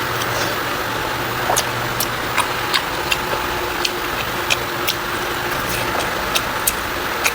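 Close-miked eating sounds: irregular sharp clicks of chewing and mouth smacks, roughly one or two a second, over a steady low background hum.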